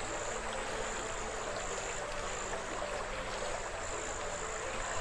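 Soft background music with slow, changing notes over a steady hiss, and a high chirp repeating a couple of times a second.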